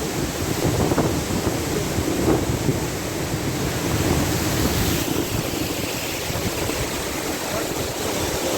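A waterfall rushing: a steady, loud wash of falling water.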